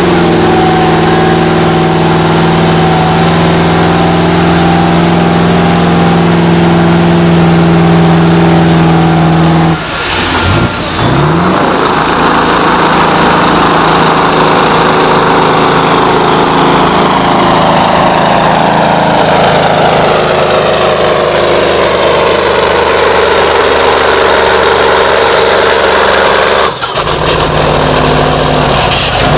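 A tractor pulling machine's engine running flat out at high revs with a high thin whine over it. After a sudden change about a third of the way in, it is a loud dense roar whose pitch slowly sinks, as the engine labours under the load of the pull.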